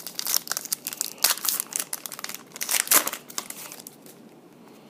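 Foil wrappers of trading card packs being torn open and crinkled in the hands: a dense, crackling rustle that dies away after about three and a half seconds.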